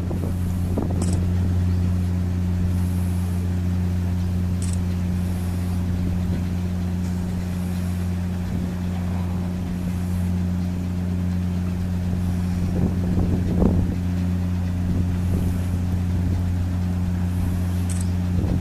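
The Yuri Maru cargo-passenger ship's engine running under way with a steady, low drone.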